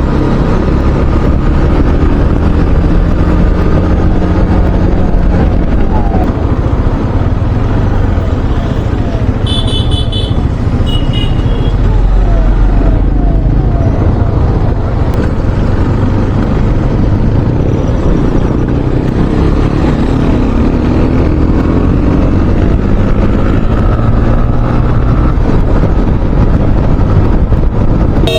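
Wind and engine noise of a motorcycle moving on the road, with a siren yelping in the first few seconds and short horn toots about ten seconds in.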